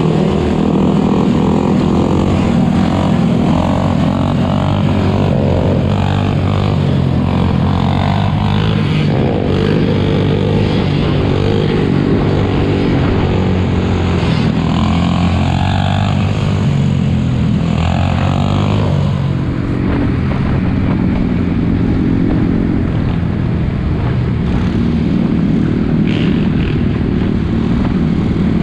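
Four-wheeler (ATV) engines running close by, their pitch rising and falling as they are revved.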